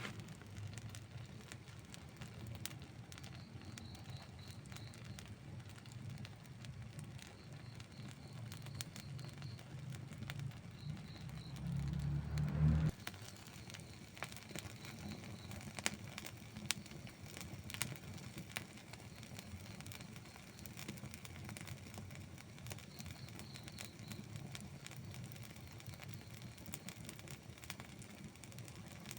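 Outdoor wood campfire burning, with a low steady rush of flames and frequent sharp crackles and pops from the burning wood. A louder low rumble swells about eleven seconds in and stops abruptly a couple of seconds later.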